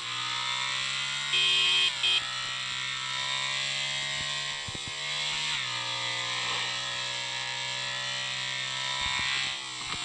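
Motorcycle engine running with a steady hum whose pitch drops a little about halfway through. A short, loud two-part beep sounds about a second and a half in.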